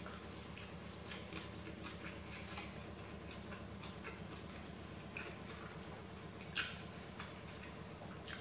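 Close-miked noodle eating: scattered soft, wet mouth clicks and chewing sounds, the loudest about two and a half and six and a half seconds in, over a steady high-pitched whine.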